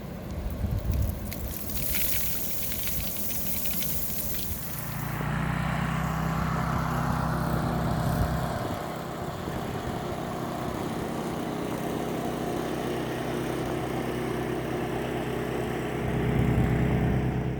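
An engine running steadily, a low hum at a constant pitch that sets in about five seconds in and grows louder near the end. Before it comes a few seconds of rushing hiss.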